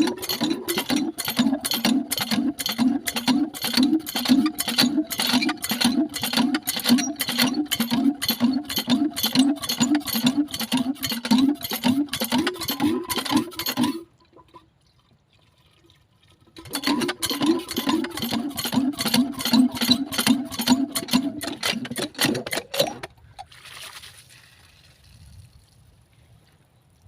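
Hand water pump worked in quick, even strokes, about three a second, with water gushing out in spurts at each stroke. The pumping stops about 14 seconds in, starts again about three seconds later, and stops near the end.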